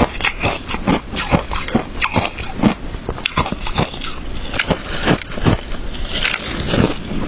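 Close-up crunching of frozen shaved ice being bitten and chewed, in quick irregular crackling crunches, several a second.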